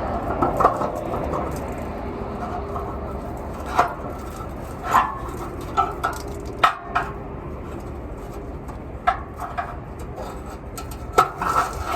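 Scattered metallic knocks and clinks, about eight irregular strikes, from tools working on a truck's exhaust pipe, over a steady background hiss.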